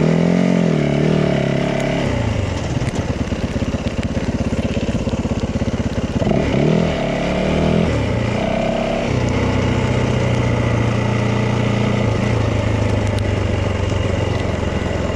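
Yamaha 450 dirt bike's single-cylinder four-stroke engine running under way, its revs rising and falling near the start and again about six seconds in, then holding steadier and lower.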